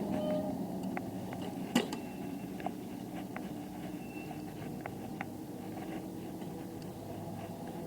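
Bicycle ride noise: a steady low rumble of tyres and wind with scattered small clicks and rattles, one sharper click about two seconds in.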